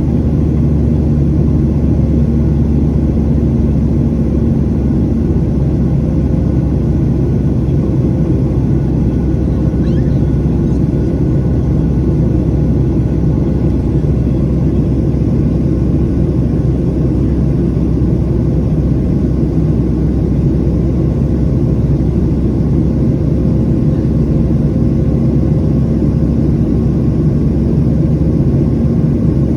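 Steady low rumbling drone of a Boeing 737-800's CFM56 jet engines and airflow, with a few faint steady hum tones over it and no change in pitch or level.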